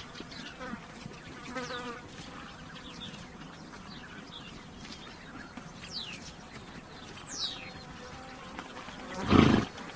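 Flies buzzing around a horse, with a few falling bird chirps. Near the end, one short, loud, noisy breath from the horse.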